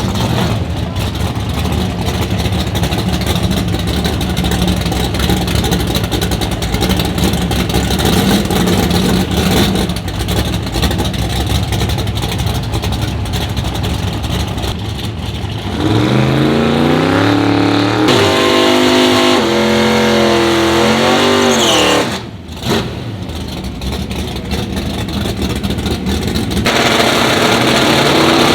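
Drag-race car engines running loudly, first at a steady idle, then revving hard in rising and falling sweeps from about halfway, and climbing again near the end as a car accelerates.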